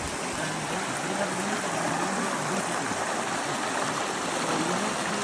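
Heavy rain falling, a steady hiss that grows slightly louder.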